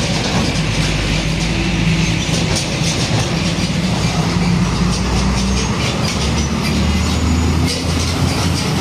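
Heavy diesel truck running close by: a steady low engine drone over loud road and rattling noise.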